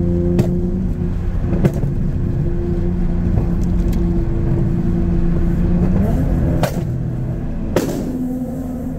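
Car engine running steadily, its pitch rising briefly about six seconds in, with a few sharp cracks scattered through.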